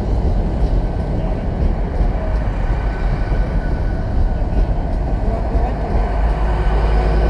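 A GWR Hitachi Class 800 train moving past along the platform: a steady rumble of wheels and running gear with a faint, steady high whine.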